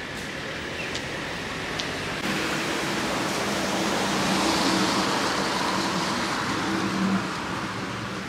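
Road traffic: a car passing, its noise swelling to a peak about halfway through and then fading, over a steady low engine hum that sets in about two seconds in.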